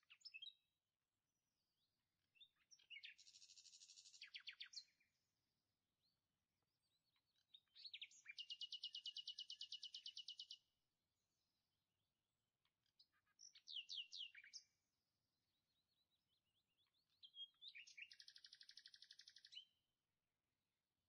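A songbird singing faintly in repeated phrases, about every four to five seconds. Each phrase opens with a few quick falling notes, and most end in a fast, even trill that lasts two to three seconds.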